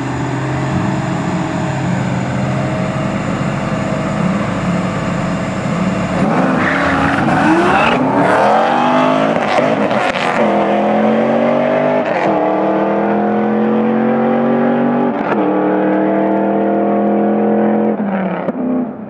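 Muscle car engine idling, then launching hard about six seconds in with a rough, noisy burst and revving up through the gears, pitch climbing and dropping at three upshifts, before cutting off near the end.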